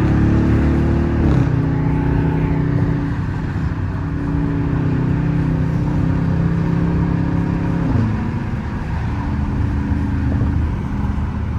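Straight-piped, catless Dodge Charger R/T 5.7-litre Hemi V8 exhaust heard from inside the cabin while driving, a deep steady drone. The engine note drops sharply in pitch about a second in and again about eight seconds in, holding steady between.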